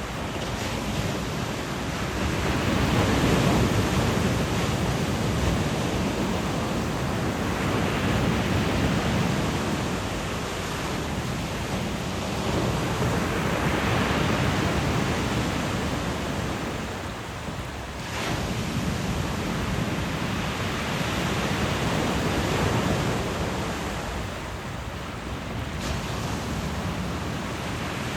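Sea waves breaking on the shore, swelling and fading about every five seconds, over the steady rush of a small mountain stream running into the sea.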